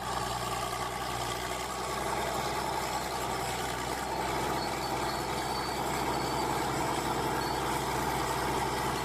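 Truck engine running steadily at an even pitch, with no revving.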